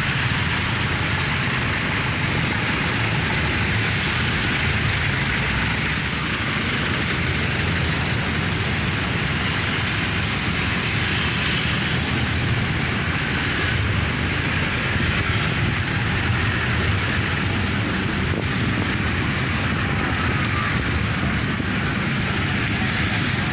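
Dense roadside traffic passing steadily: engine rumble and tyre noise from cars, buses and trucks, holding an even level throughout.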